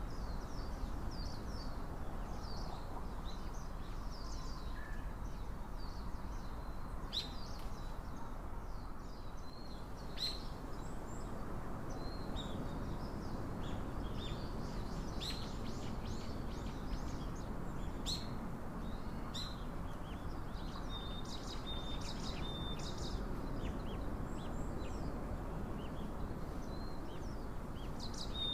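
Small wild birds chirping and calling in short high notes throughout, with a quick run of repeated notes past the middle, over a steady low rushing background noise.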